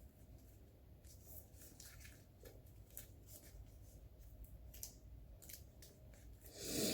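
Faint handling noises: scattered small clicks and light rustles, with a louder rustling swish just before the end.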